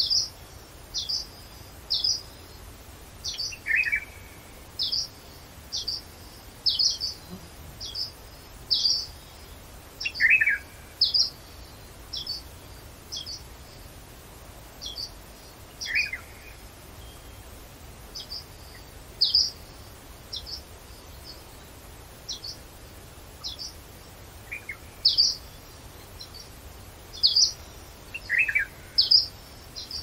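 Forest birds calling: a short, high note that falls in pitch repeats about once a second. Every several seconds a lower call of the same falling kind cuts in.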